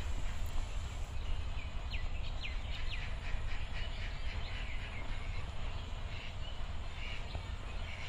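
A bird calling over and over in short, quickly falling chirps for most of the stretch, over a steady low rumble.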